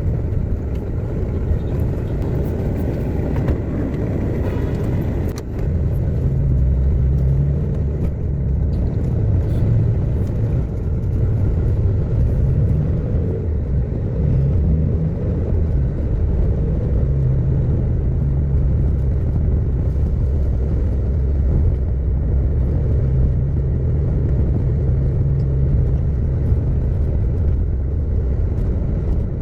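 Car driving along the road: a steady low rumble of engine and tyres, with a single sharp knock about five seconds in.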